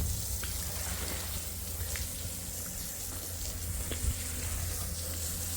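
Steady hiss of running or pouring water over a low hum, with a few light clicks.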